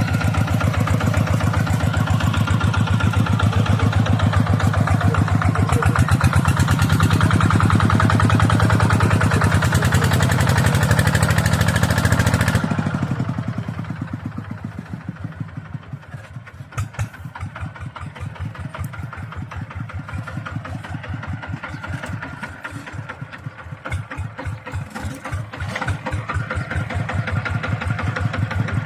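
Mini tractor engine running with a steady, rapid chugging. It is loud for the first half, turns abruptly quieter and duller about halfway through, and grows louder again near the end.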